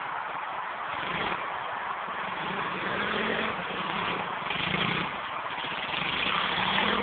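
Pit bike engine revving up and down in repeated swells, with a rough, noisy edge.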